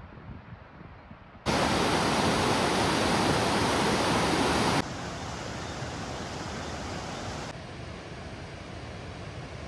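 Waterfall: a steady, even rush of falling water. After a quieter low rumble it cuts in loud about a second and a half in, then drops in level suddenly twice, at about five seconds and again at about seven and a half seconds.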